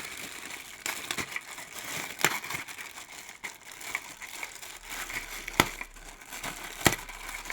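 Plastic packaging crinkling and rustling as vacuum-cleaner attachments are handled and unwrapped, with several sharp clicks and knocks, the loudest about two, five and a half and seven seconds in.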